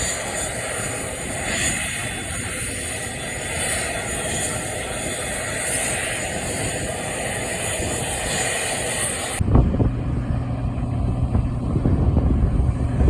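Aircraft engine noise at an airfield: a steady rushing sound with a high whine. About nine seconds in it cuts off abruptly to a low steady drone, with wind buffeting the microphone.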